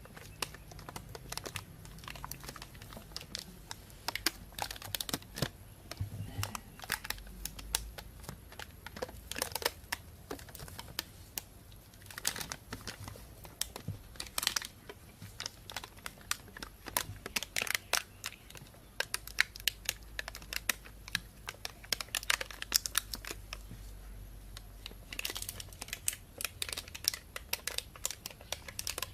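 Plastic bag being crinkled and rustled in a dense, irregular run of sharp crackles, with a few brief lulls.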